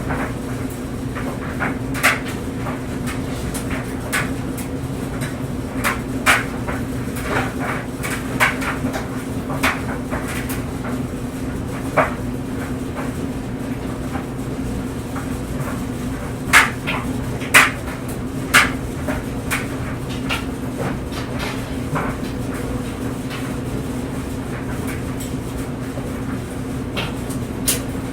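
Clothes dryer running with a steady motor hum while clothes tumble in the drum, with irregular knocks and clicks, likely buttons or zippers striking the drum, every second or so, a few louder ones about two-thirds of the way in.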